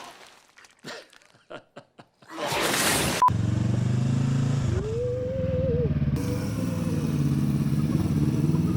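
After a couple of brief whooshes, a motorcycle engine starts running about three seconds in and carries on steadily with an even pulsing note, rising and falling briefly once along the way.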